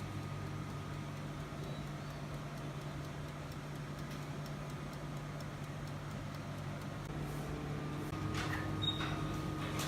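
Electric oven running with a steady low hum, with a few light clicks near the end.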